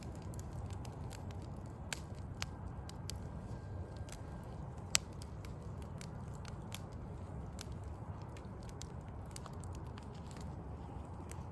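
Backyard wood fire crackling, with scattered sharp pops of burning logs, the loudest about five seconds in. Underneath runs a steady low rumble of city background noise.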